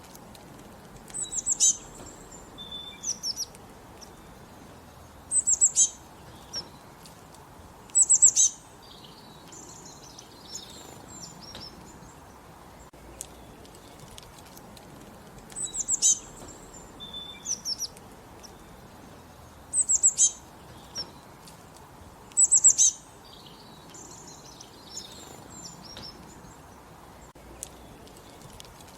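Small songbirds singing short, high, chirping phrases every few seconds over a steady low background hiss.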